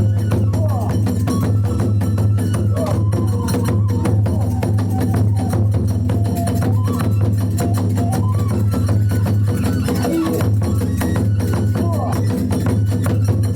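Kagura hayashi accompaniment: drums and small hand cymbals struck in a fast, steady rhythm, with a wavering melody line above them.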